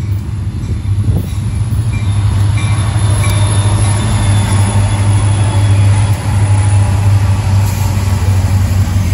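Diesel locomotives of a train running past close by: a loud, steady low rumble that builds slightly over the first few seconds.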